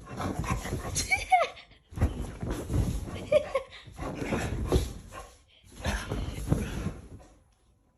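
A dog vocalizing in four short runs of rough, grumbling sounds, with brief whines about a second in and again near the middle.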